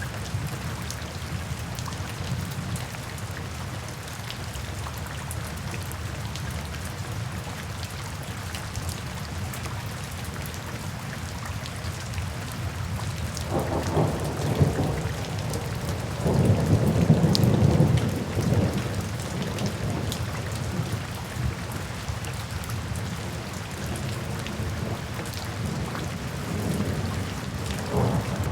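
Steady rain falling, with a low rumble of thunder that swells about halfway through and is loudest for a few seconds before fading back into the rain.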